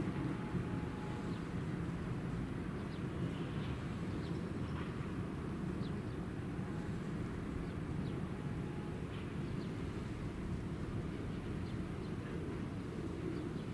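Steady low rumble of rail and city traffic at a busy trackside, with faint short bird chirps now and then.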